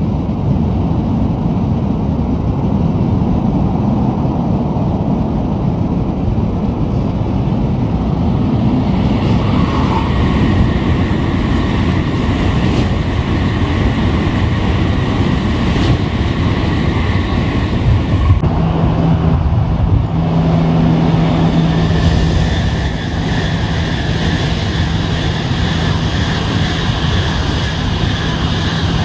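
Shinkansen bullet trains passing at speed, a loud continuous rush of wheels on rail and air. About two-thirds of the way in the sound changes abruptly to another passing train, with a steady low hum under the rush.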